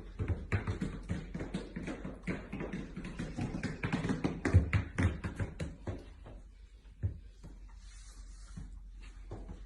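A rapid, irregular run of taps and knocks for about seven seconds, then much fainter.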